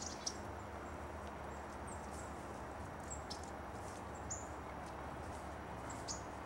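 Small songbirds chirping in the woods: short, high calls scattered about once a second, over a steady low background hum.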